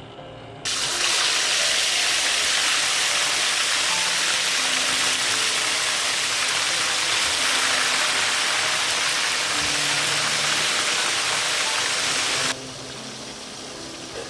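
A loud, steady rushing hiss that starts abruptly about a second in and cuts off abruptly near the end, with faint background music underneath.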